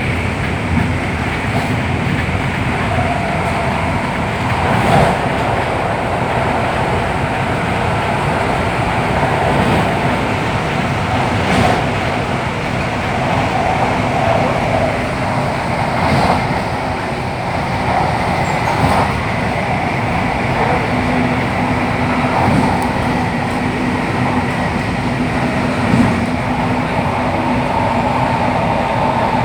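MTR Tung Chung line CAF train running at speed: a steady rumble with a faint whine from the drive and a few clicks, about one every few seconds, as the wheels pass over the rail joints.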